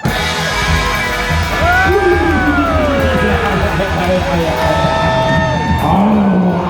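Live rock and roll band playing loudly, electric guitar to the fore; the full band comes in right at the start after a few drum hits.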